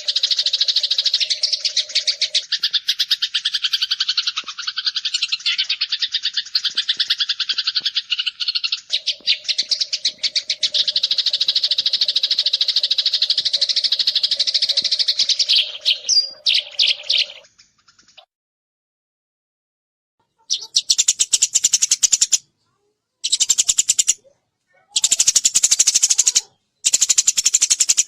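Eurasian tree sparrows chirping in a fast, dense, continuous chatter. It breaks off about two-thirds of the way through, falls silent for a couple of seconds, then resumes in several blocks with short gaps between them.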